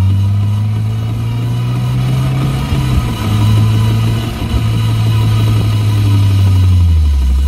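Lotus Elise's four-cylinder engine running under load through the bends, its steady note shifting up about three seconds in and falling away near the end as the revs change.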